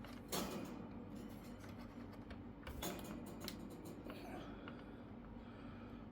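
Small plastic clicks and taps from handling laptop parts while fitting the power button's ribbon cable into its connector, with a sharper click about half a second in and another near three seconds, over a faint steady hum.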